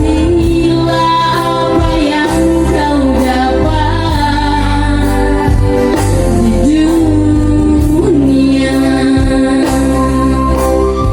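A solo voice singing a slow melody with long held notes that waver, over keyboard accompaniment with a steady bass.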